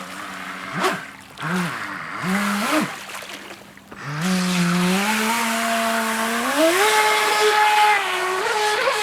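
RC jet boat's motor and jet pump whining, the pitch blipping up and down in quick throttle bursts for the first few seconds, then rising and holding higher as the boat is driven at speed, over a hiss of water.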